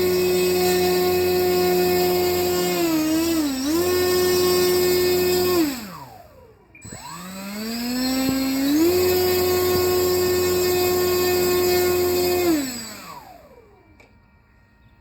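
Electric motor and propeller of an RC P-47 model plane on a 3-cell battery, running with a steady whine that wavers briefly about three seconds in. The motor is throttled down to a stop around six seconds, run up again over a couple of seconds, held steady, then wound down near the end.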